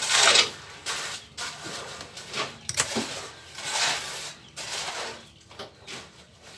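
Plastic parts of a twin-tub washing machine's drain valve being handled and fitted together: a series of short scraping and rustling noises, the loudest at the start.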